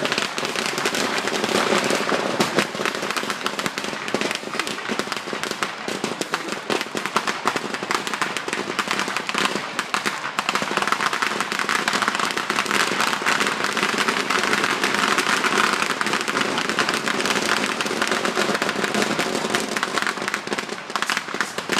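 Fireworks crackling in a dense, unbroken stream of rapid pops and crackles.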